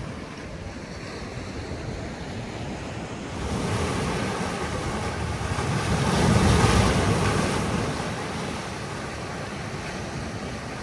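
Sea surf washing on the shore, one wave building about a third of the way in, peaking near the middle and then fading, with some wind on the microphone.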